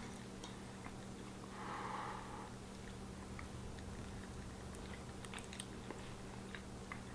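Two people eating quietly from bowls: faint chewing and a few small clicks of forks against the bowls, over a low steady hum.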